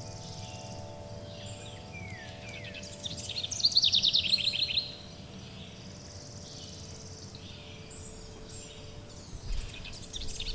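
Forest birdsong: a bird sings a loud, rapid, falling trill about three seconds in that lasts nearly two seconds, then starts again near the end, with fainter chirps in between. Under it, long, steady, sustained chime tones ring over a soft background hiss.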